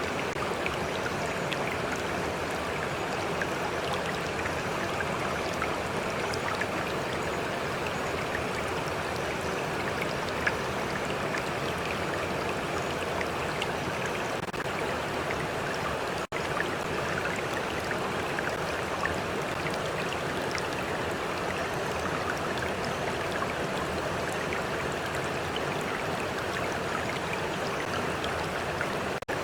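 Stream of water flowing steadily, with small lapping and trickling splashes over a constant rushing. The sound cuts out for an instant about halfway through.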